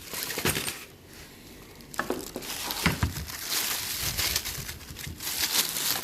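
Plastic packaging crinkling and rustling as a new hand planer and its parts are unboxed, with a few sharp knocks of parts being handled about two and three seconds in.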